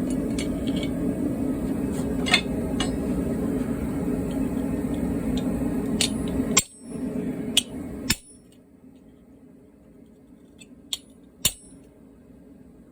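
Metalworking in a blacksmith's shop: a steady rumbling roar that dips briefly and then cuts off about eight seconds in, with scattered metallic clinks and taps, two sharp ones near the end.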